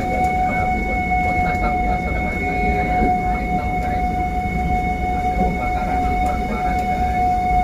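Vintage passenger train moving, heard from inside the car as a steady running rumble. Over it a single steady high tone holds without a break.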